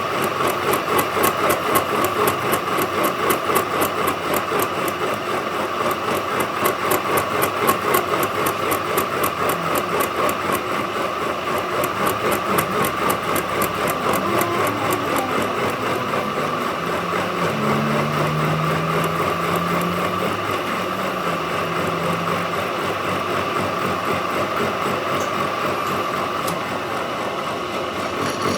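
Machine tool running steadily with a constant whine, pulsing about twice a second for the first dozen seconds and then evening out.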